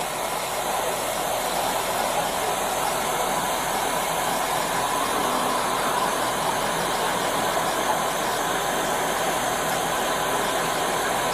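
Steady hiss and hum of an idling vehicle engine, unchanging throughout.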